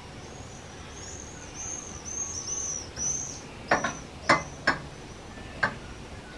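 A small bird chirping a quick run of high, arching notes for about three seconds, followed by four or five sharp clicks or knocks, the loudest sounds, over a steady background hiss.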